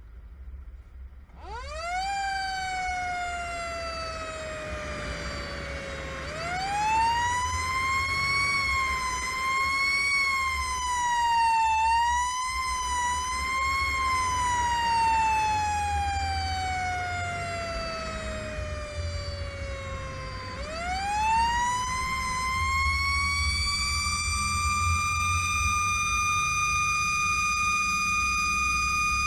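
Fire truck siren starting about a second and a half in with a quick rise in pitch, then sliding slowly down. It rises again and wavers up and down near its top pitch, slides slowly down a second time, then rises and holds a steady high pitch, over a low engine rumble.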